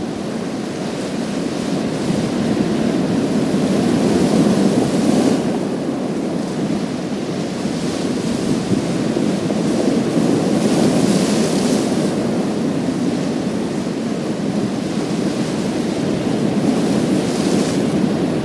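Sea waves surging and washing over a pebble beach in a continuous rush. A brighter hiss swells a few times: about five seconds in, around eleven seconds in, and near the end.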